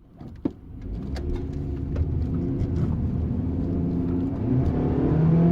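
Car engine running with a steady low rumble, its note slowly climbing. There is a sharp click about half a second in and a few lighter ticks.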